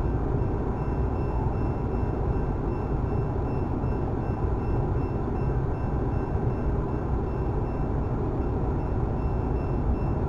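Steady cabin noise of a car idling with the air conditioning running: an even low rumble and fan hiss that does not change.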